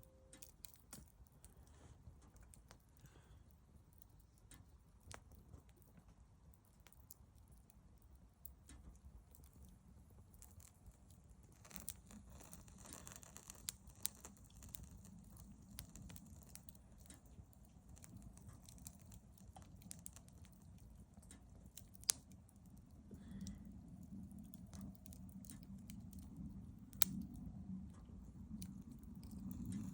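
Campfire crackling softly: scattered small pops and snaps over a faint low rumble, with a few sharper pops.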